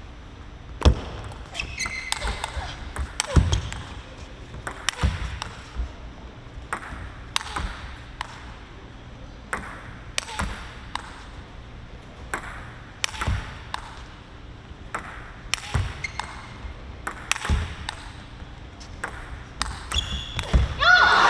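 Celluloid-style plastic table tennis ball clicking back and forth off rackets and the table in an irregular run of sharp knocks, the echo of a large hall behind them.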